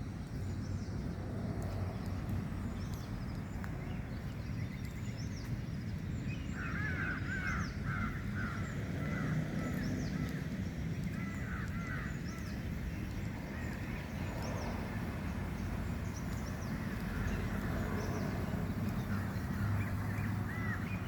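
Birds calling and chirping over a steady low rumble. The calls come in bursts of short, quick chirps, thickest about a third of the way in and again near the end.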